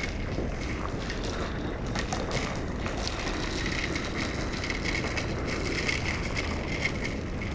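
Motorcycle running at road speed with wind rushing over the microphone and raindrops striking the camera, heard as many small ticks over a steady low hum.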